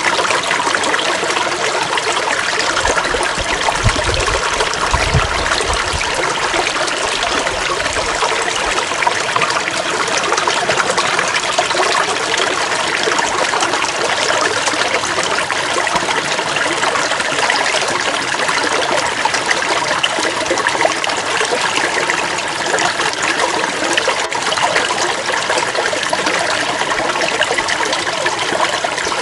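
Stream water flowing steadily with a continuous babbling trickle. A few low rumbles come through in the first several seconds.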